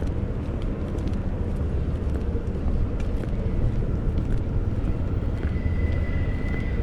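Suburban electric train running slowly away around a tight curve, a steady low rumble, with a faint thin high steady tone joining about five seconds in.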